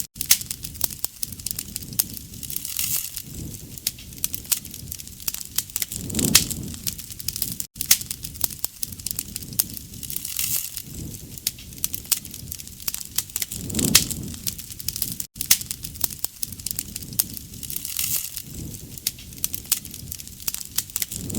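Wood fire crackling with many sharp pops, and a soft swell in the sound of the flames about every four seconds.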